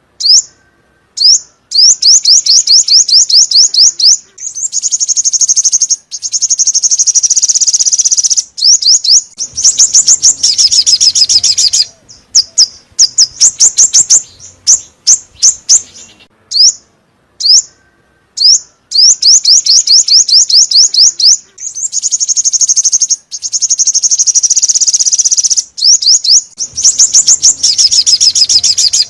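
The song of the bird sold in Vietnam as 'chim 5 màu' (five-colour bird), played as a lure call for trapping. It comes as fast trills of repeated high, falling notes in phrases of two to three seconds with short pauses between them.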